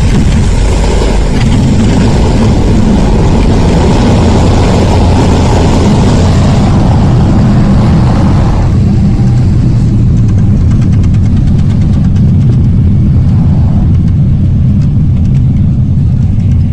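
Cessna Caravan's single turboprop engine running with a loud, steady low drone. A higher hiss over it drops away about nine seconds in, leaving mostly the low rumble.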